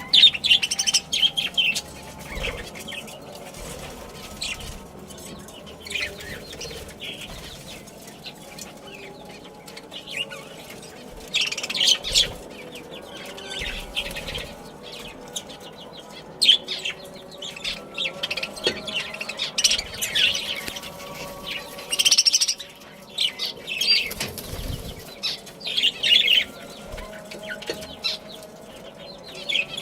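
Budgerigars chirping in short bursts every few seconds, over a steady background hum.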